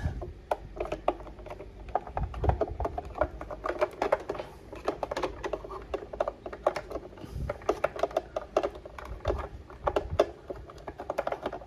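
Hard plastic toy parts clicking and tapping as they are handled: a small figure being worked back into the driver's seat of a plastic toy van. The clicks are quick and uneven, several a second.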